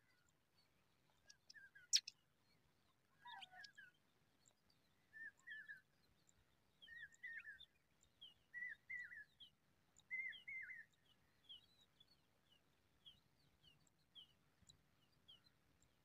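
Faint bird chirping: short clusters of chirping notes every second or two, then fainter, higher single chirps repeating a little faster over the last few seconds. A sharp click sounds about two seconds in.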